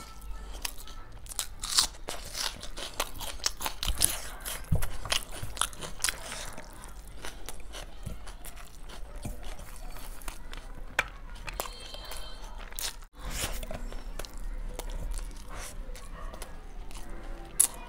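Close-miked eating of biryani by hand: chewing with wet mouth clicks and crunchy bites, heard as a dense run of small clicks and crackles, with a brief gap about two-thirds of the way through.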